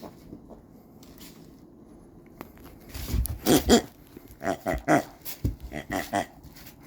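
A dog chewing and biting on noise-making plush toys, setting off a run of short pitched toy sounds from about three seconds in.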